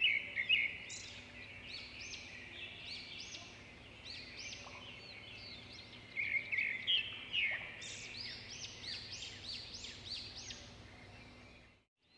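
Many swiftlets twittering: a dense stream of overlapping high chirps, louder at the start and again about six to eight seconds in. The sound drops out briefly just before the end.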